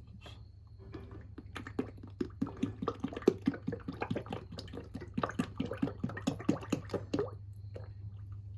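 Motor oil glugging out of a plastic oil bottle as it is poured into the engine's filler: a rapid run of glugs, several a second, starting about a second and a half in and stopping near the end.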